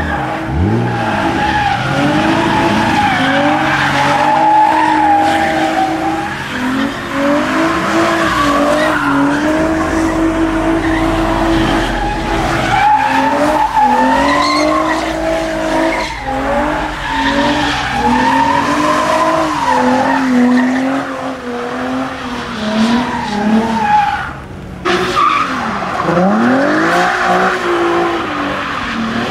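Car engine held at high revs, the revs rising and falling again and again, while the tyres squeal and skid as in donuts or burnouts at a street takeover. The sound dips briefly near the end before the revving resumes.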